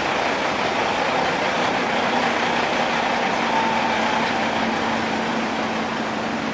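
Steady engine and tyre noise from heavy road trucks, with a faint low hum that comes in about two seconds in.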